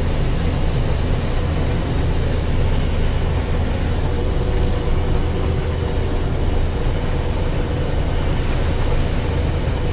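Combine harvester running steadily while harvesting soybeans: a constant low engine hum. A faint higher tone joins about four seconds in.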